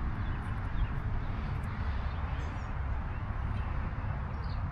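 Steady hiss of rain falling, with a constant low rumble under it and a few faint bird chirps, one near the end.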